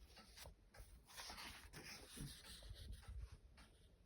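Faint rustling of paper as a book's pages are handled and turned, with a few soft ticks, close to near silence.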